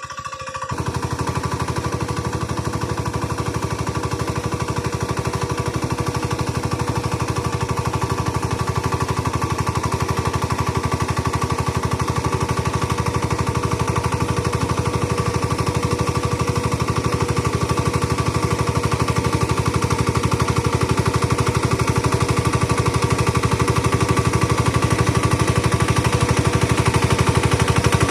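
Engine of a paddy-field ploughing machine running steadily with a fast, even chugging pulse. It comes up about half a second in and grows slowly louder toward the end.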